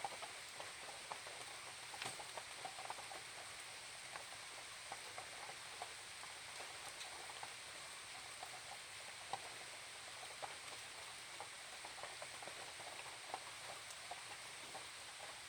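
Light rain falling, with many small irregular drops tapping on the leaves of a Korean pepper tree over a soft steady hiss. A faint steady high-pitched hiss sits above it.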